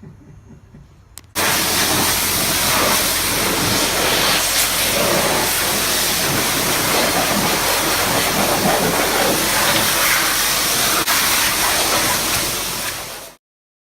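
A water jet, likely a pressure washer, spraying a dirty engine bay: a loud, steady hiss that starts suddenly about a second in and cuts off near the end.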